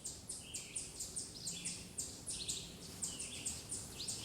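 Forest birds chirping: a quick, continuous run of short, high notes, several a second.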